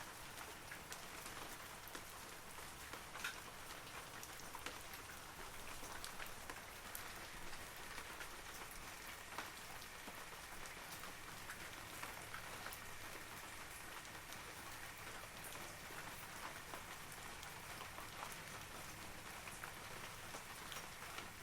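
Steady rain falling on forest trees, a continuous patter with many individual drops ticking distinctly above it.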